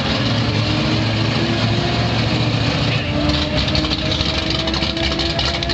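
1972 Ford Maverick drag race car's engine running at a steady high idle after being revved. About halfway through, a rough crackling joins in.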